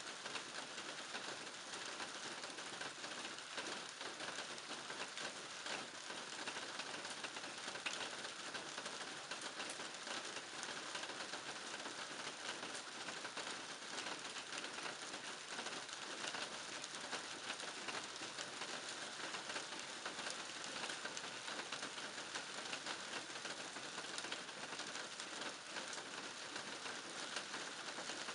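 Steady rain falling on a garden, a continuous hiss dense with the small ticks of individual drops striking surfaces.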